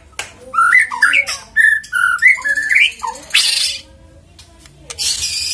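White-rumped shama singing: a fast run of clear whistled notes gliding up and down, then two short harsh rasping bursts, one about three seconds in and one near the end.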